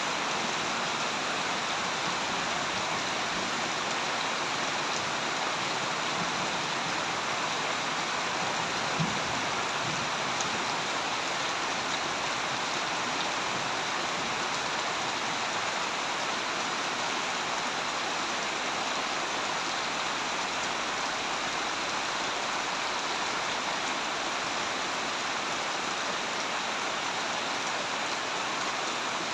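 Steady heavy rain falling, a constant hiss with a few louder drop ticks about nine seconds in.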